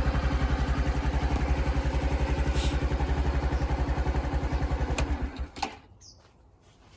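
Small single-cylinder four-stroke motorcycle idling with an even exhaust beat. It shuts off about five and a half seconds in, with a click just before.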